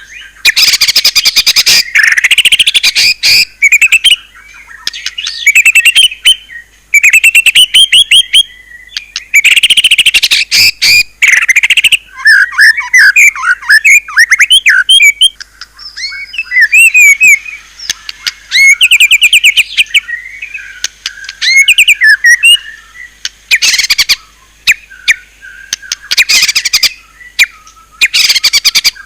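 White-rumped shama (murai batu) singing a loud, varied song: bursts of very rapid repeated notes alternate with whistled, bending phrases, broken by short pauses.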